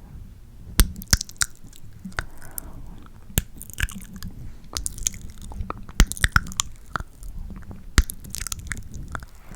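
Close-miked ASMR mouth sounds: wet tongue clicks and lip smacks, coming irregularly as sharp pops with softer wet crackle between them.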